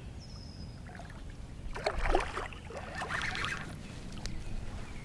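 Water splashing and sloshing at the side of a small fishing boat, in short bursts about two and three seconds in, over a low steady rumble.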